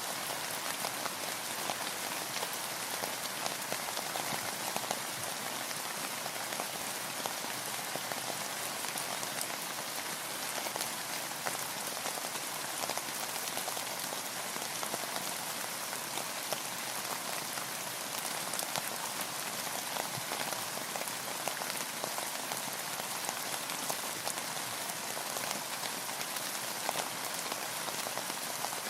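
Steady rain falling on a boat, with a dense patter of individual drops.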